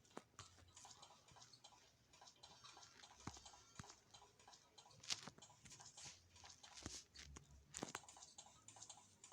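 Faint, irregular clicks and taps against near silence, with a few sharper clicks about five and eight seconds in.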